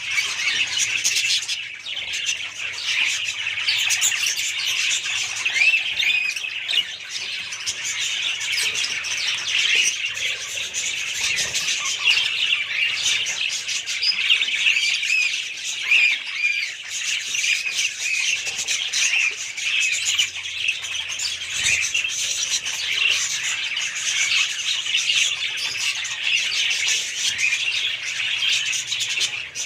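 A flock of budgerigars chattering and chirping together, a continuous dense mix of short squawks and warbles with no pause.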